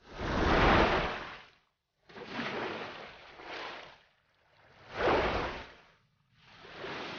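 Water rushing and splashing in four separate surges, each swelling and fading over a second or two, with brief silences between.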